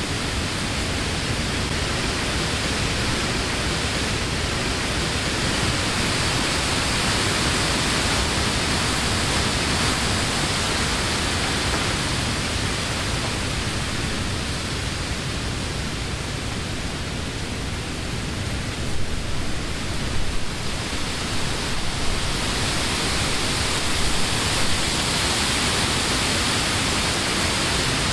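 Summer wind blowing through trees, a steady rushing of leaves that swells and eases, with a few sharper gusts about twenty seconds in.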